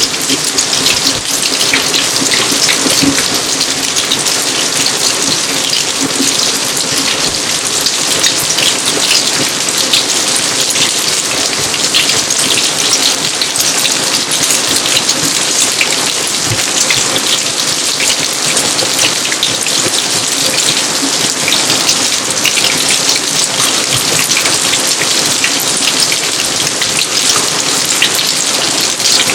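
Steady heavy rain: a dense, even hiss of countless drops striking surfaces, with no let-up.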